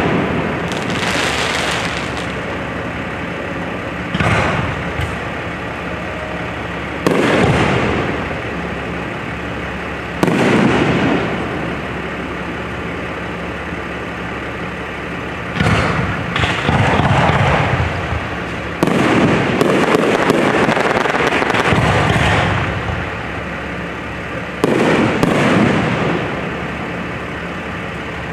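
Aerial fireworks bursting in the sky: a loud boom every few seconds, each dying away with a rumbling echo, with a run of several bursts close together in the second half.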